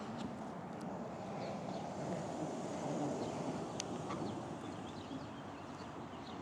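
Steady rolling noise of a bicycle ride, tyres on the road with wind on the microphone, with faint short bird chirps and a single click about four seconds in.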